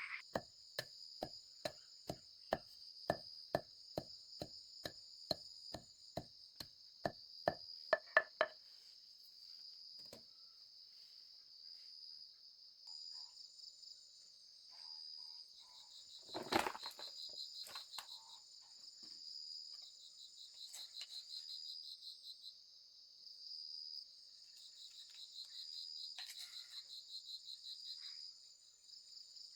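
Steady chirring insect chorus, like crickets, throughout. For the first eight seconds it is joined by a rapid run of sharp chopping strokes, about three a second, and about halfway through there is a single loud knock.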